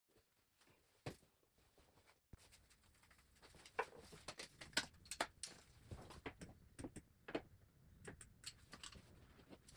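Near silence, with faint scattered clicks and light taps of small hand-handling noise that start about halfway through.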